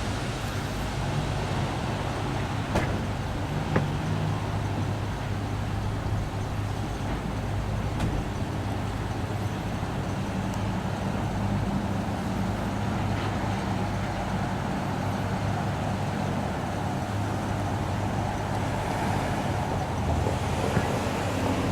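Water tanker trucks driving past on the street: a steady low engine drone with a few faint clicks.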